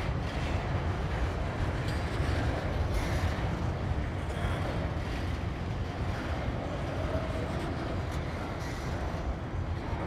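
A train rolling past: a steady low rumble of wheels on the rails.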